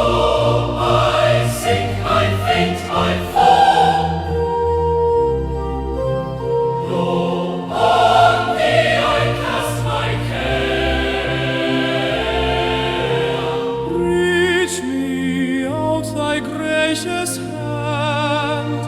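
Choir singing a slow hymn in held, sustained chords over a low bass line; in the last few seconds the upper notes waver with vibrato.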